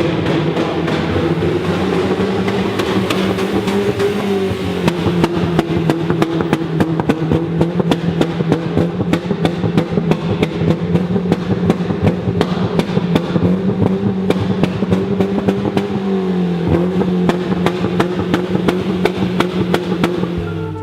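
BMW 316i E36 four-cylinder engine running with its exhaust removed, held at high revs, its pitch rising and dipping slightly a couple of times. From about five seconds in it crackles with rapid sharp pops.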